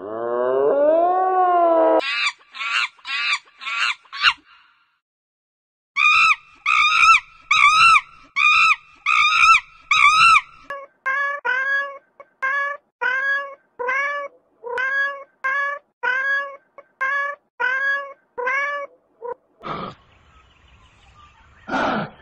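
Cats meowing: a long rising meow, then runs of short repeated meows, first a higher-pitched series and then a longer series of lower ones.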